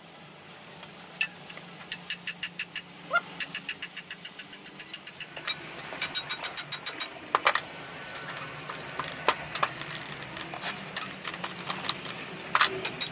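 Metal tapping and rattling as a tube is worked loose from a Model T's cast-iron exhaust manifold: quick runs of sharp knocks, several a second, with short pauses between runs.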